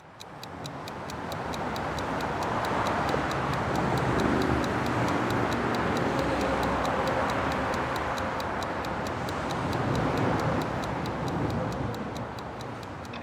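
Even, clock-like ticking at about five ticks a second over a broad rushing rumble that fades in at the start and swells through the middle.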